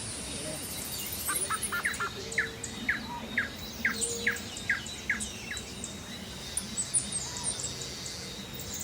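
A bird singing a run of quick falling notes, about three a second, for around four seconds, with fainter high chirps from other birds over a steady outdoor background.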